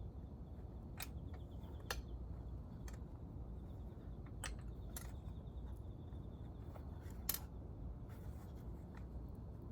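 Scattered sharp metallic clicks and light taps, about five of them, from hand tools and parts being handled during motorcycle engine disassembly. The loudest comes near the end, over a low steady hum.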